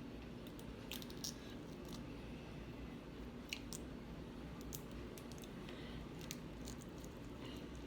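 A person chewing seafood close to the microphone, with a few faint, scattered clicks and crunches.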